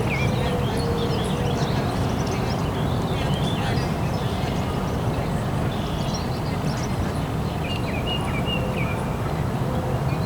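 Small birds chirping and trilling over a steady low rumble, with a faint hum that comes and goes.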